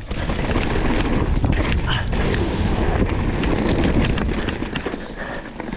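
Mountain bike riding fast down a rough downhill trail: wind noise on the microphone with the rattle and knocks of the bike over roots and stones, easing off near the end.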